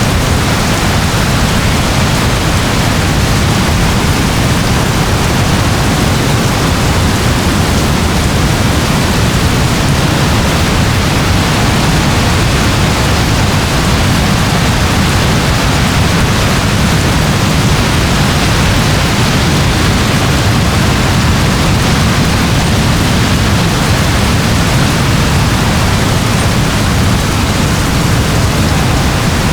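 Steady rain, an even hiss with a deep rumbling undertone and no separate drops or thunderclaps standing out.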